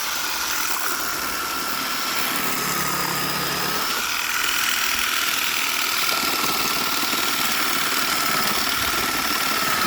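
Electric motor of an RC motorbike whining steadily at a nearly constant high pitch with slight wavers, over a rough rushing noise.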